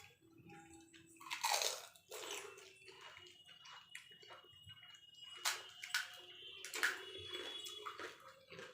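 Golgappa (phuchka) being eaten in a hurry: tangy water sloshing and splashing as the hollow puris are filled, with crunching and slurping in irregular bursts.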